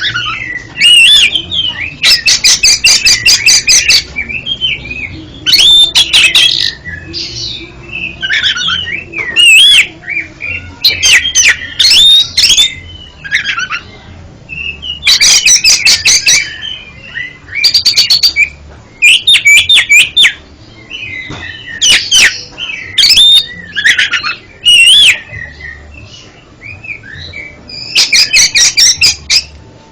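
Oriental magpie-robin singing a loud, varied song: whistled notes that slide up and down, mixed with bursts of fast rattling clicks, phrase after phrase with short pauses between.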